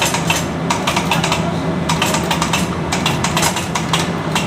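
Rapid, irregular light clicks and taps of hand tools on metal parts, over a steady low hum.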